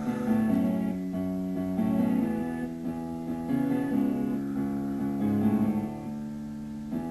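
Background music: a computer-composed piece with a plucked, guitar-like melody of notes changing every half second or so.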